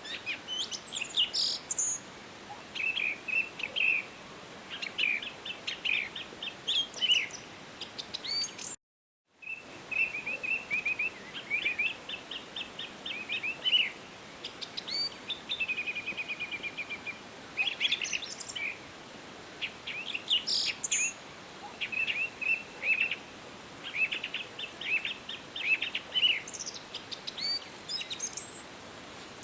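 Songbirds singing in a forest: repeated short chirps and trilled phrases from several birds over a faint steady background hiss. The sound drops out completely for about half a second around nine seconds in.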